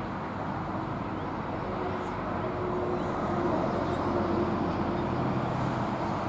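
Steady low outdoor rumble with a faint hum, like distant road traffic, swelling a little about halfway through. A few faint high chirps sound over it.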